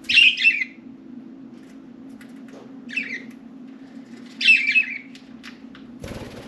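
Budgerigars giving three short, harsh chirping calls, one at the start, one about three seconds in and one about four and a half seconds in, over a steady low hum. A brief rustle comes near the end.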